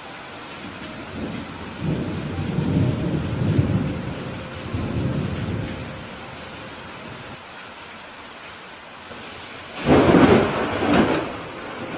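Steady rain falling throughout, with a low rolling rumble of thunder for a few seconds early on, then a louder, sharper thunderclap about ten seconds in.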